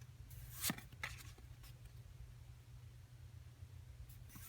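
Trading cards being handled and slid against each other: one brief papery swish about half a second in, then a few fainter rustles, over a steady low hum.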